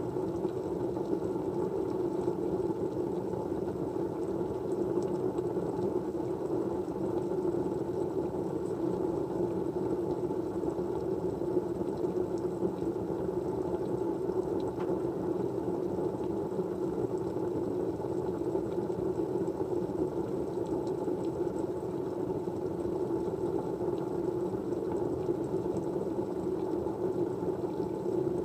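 Steady white-noise background, an even dull hiss centred low in pitch that holds the same level throughout, with a few faint light ticks.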